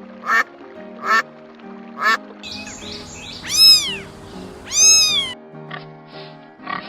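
A duck quacking three times, about a second apart, then a cat meowing twice in long calls that rise and fall in pitch, over background music.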